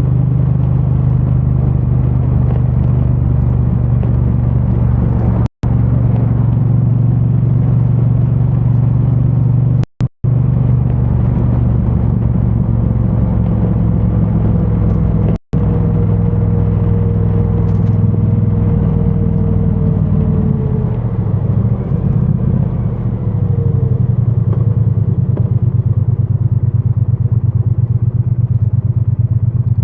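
2022 Triumph Bonneville T100's 900 cc parallel-twin engine running through its stock exhaust under way, muffled and deep as picked up from a backpack. The sound cuts to silence for a split second four times in the first half; a little past two-thirds through, the engine note shifts as the bike slows, then settles into a lower, pulsing beat.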